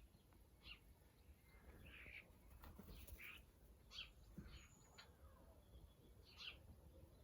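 Faint garden birds calling: scattered short chirps spread irregularly through the stretch.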